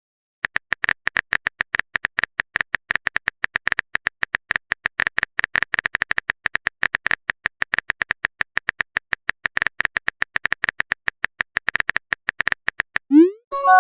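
Phone-keyboard typing sound effect: rapid, irregular taps, several a second, stopping near the end, where a short rising swoop plays.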